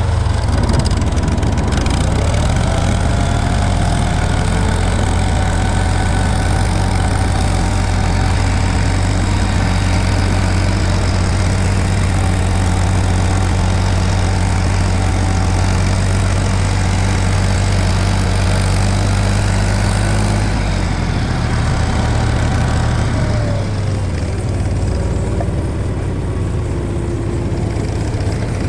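80 hp International tractor engine running steadily with a deep, even note; about twenty seconds in the note shifts and drops slightly.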